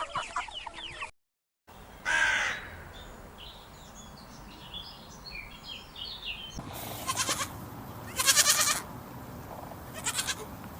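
Short clips of different animal calls edited one after another. First come quick chirping calls, then a brief silence. About two seconds in there is a single loud call, followed by soft chattering calls, and in the second half a run of loud, harsh calls.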